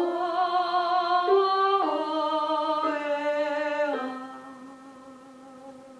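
A woman singing a vowel warm-up exercise: a few held notes with vibrato, stepping up and then back down in pitch. The last note fades away over the final two seconds.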